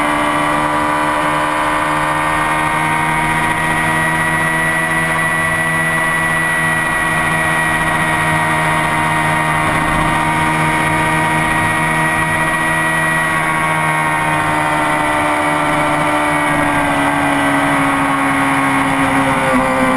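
Honda CBR600RR sport bike's inline-four engine running at a steady, moderate engine speed for a long stretch, the engine note falling over the last few seconds as it slows.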